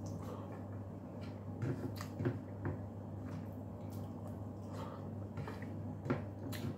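A person chewing a mouthful of food eaten by hand, with scattered small wet mouth clicks and soft taps, over a steady low hum.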